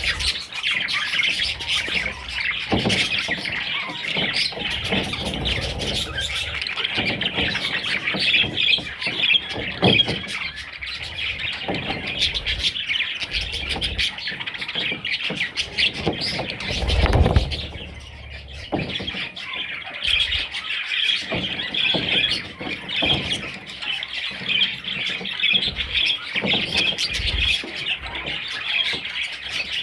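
Budgerigars chirping and squawking steadily in dense, overlapping chatter, with a dull bump a little past halfway through.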